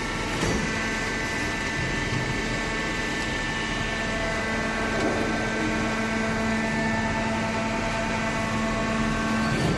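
A hydraulic cardboard baler running, its motor and pump giving a steady hum of several held tones over an even mechanical noise.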